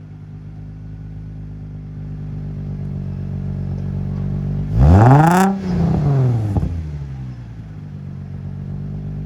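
2003 Infiniti G35's V6 idling through a Z1 Motorsports single-exit Y-pipe-back exhaust run without its silencer, blipped once about five seconds in: the revs climb sharply and fall straight back to idle.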